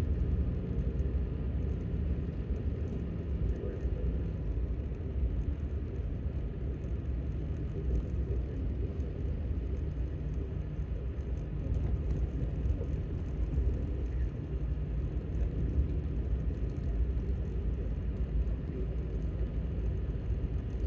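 Steady low rumble of a pickup truck driving on a snow-covered road, heard from inside the cab: engine and tyre noise.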